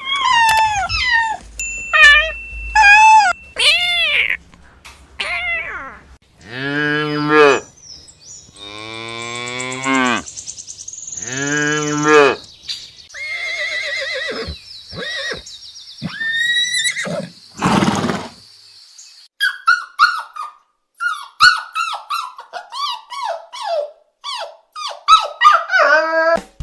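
A run of different animal calls one after another: high wavering cries for the first few seconds, then long deep calls with many stacked tones, then a stretch of quick short chirps near the end.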